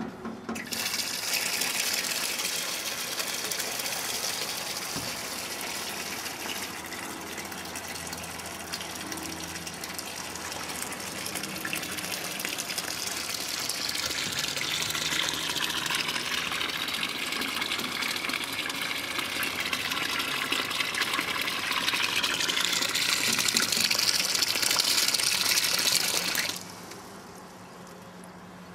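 Water running in a steady gush, its rushing tone shifting as it goes, then shut off suddenly near the end.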